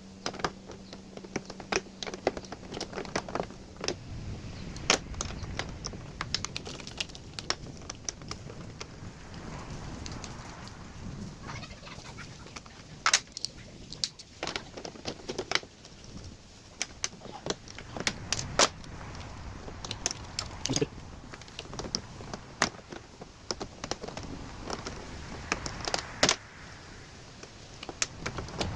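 Scattered small metallic clicks and clinks from hand tools working nuts and wire terminals while wires are disconnected from the back of a battery disconnect switch, irregular and a few seconds apart.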